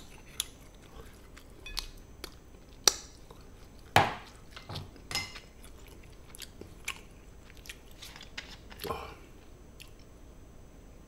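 Close-miked chewing of a mouthful of rice and gochujang chicken, broken by scattered sharp clicks and knocks of tableware and a bottle being handled. The loudest knock comes about four seconds in.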